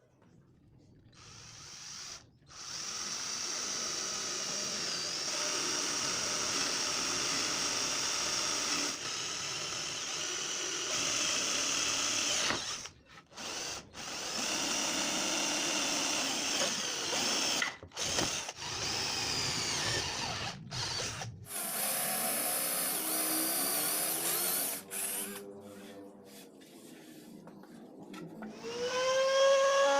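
Electric drill running in several long bursts with brief stops between them. Near the end a different pitched whine starts and rises.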